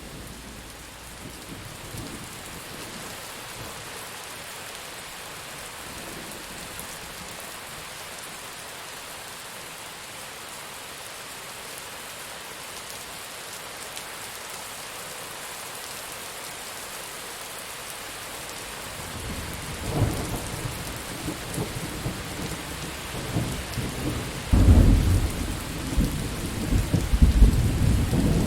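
Steady rain falling during a thunderstorm. About two-thirds of the way in, thunder starts to rumble, and near the end it breaks into a loud, deep, crackling roll.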